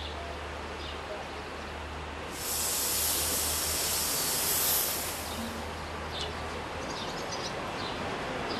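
Narrow-gauge electric train of the Berner Oberland Railway drawing into the station, heard as a steady low hum, with a loud hiss about two and a half seconds in that lasts around three seconds.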